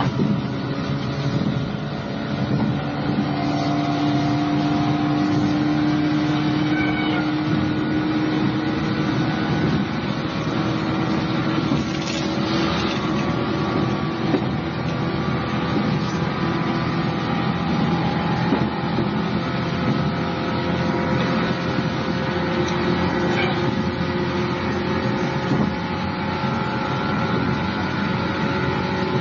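Sound inside the carriage of an electric local train while it runs: a steady rumble from the wheels and track, with a motor hum whose tones drift slowly in pitch.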